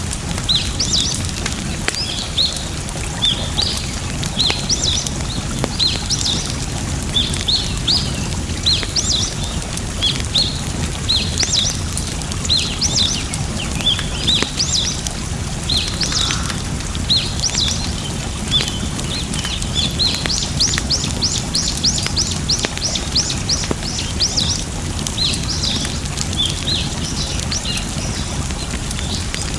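A bird calling over and over in short chirps, with a fast run of about a dozen quick notes partway through. Underneath runs a steady low rush of water and the occasional faint crackle of a campfire.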